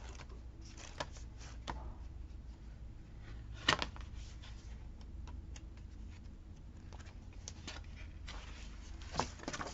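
Paper handling: sticker sheets and planner pages rustling, with a few light clicks and taps, the sharpest about four seconds in, over a steady low hum.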